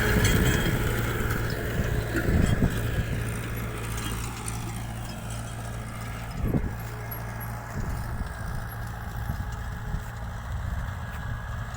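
Mahindra tractor's diesel engine running steadily while ploughing a field, with a few low thumps.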